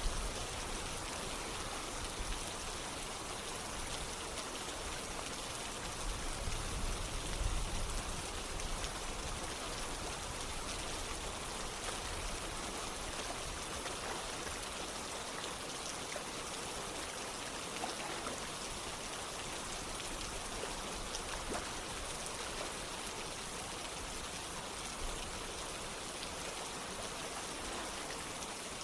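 Steady rain falling together with running water, an even hiss with no let-up. A brief deeper swell comes about six to eight seconds in.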